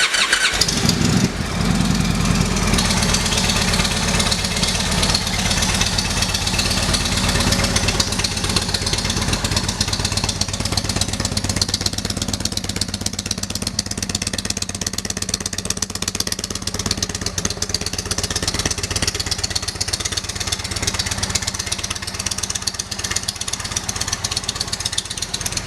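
2016 Indian Chieftain's 111 cubic inch V-twin running through aftermarket custom exhaust pipes. It is louder for the first couple of seconds, then settles into a steady run.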